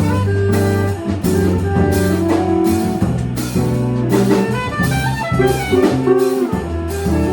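Live jazz quartet playing, with drums keeping a steady cymbal beat under moving bass and melody lines.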